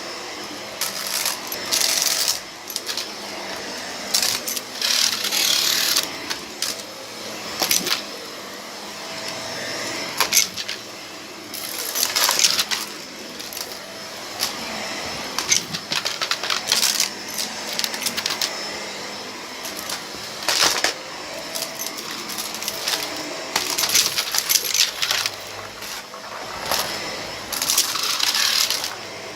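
Vacuum cleaner running over a rug strewn with a debris mix, with bursts of hard bits rattling and clicking as they are sucked up every second or two.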